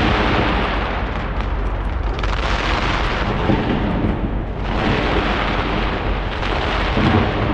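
Fireworks fired from a skyscraper going off in a dense, continuous barrage of bangs. The barrage eases about four seconds in, then picks up again.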